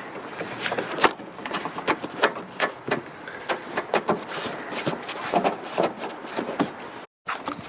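Plastic car trim being handled and pressed into place: irregular clicks, taps and rattles of plastic on plastic. The sound cuts out briefly about seven seconds in.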